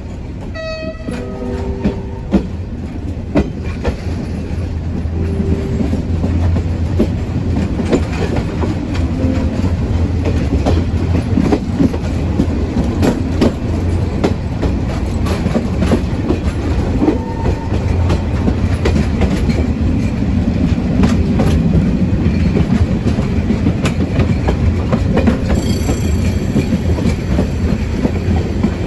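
Baie de Somme heritage train running along the track, its wheels clicking over the rail joints with a steady low rumble that grows slowly louder. The locomotive gives a short blast about a second in.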